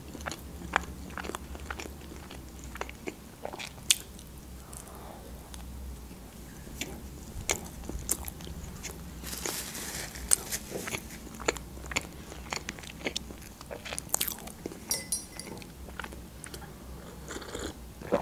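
A person chewing food close to the microphone, with sharp wet mouth clicks scattered irregularly throughout.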